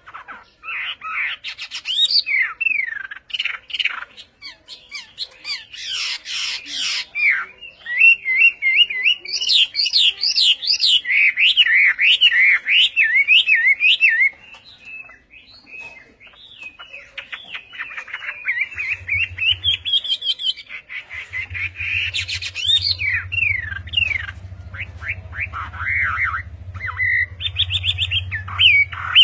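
A songbird singing a long, varied song of quick whistled phrases, slurred notes and rapid trills, with a short pause near the middle. A steady low hum joins about two-thirds of the way through.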